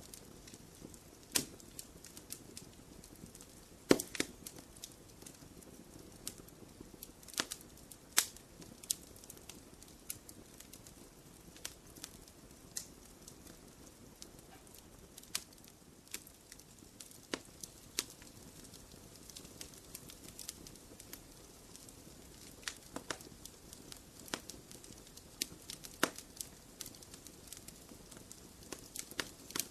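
Wood fire in a fireplace crackling, with sharp pops and snaps at irregular intervals over a low steady hiss.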